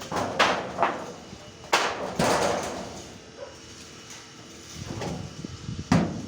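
A few sharp knocks and bangs, like materials being struck or handled, with the loudest about two seconds in and another near the end.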